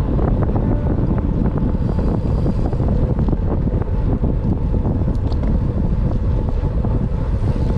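Wind buffeting the microphone of a camera riding along on a moving road bicycle, a steady dense low rumble with a few faint clicks.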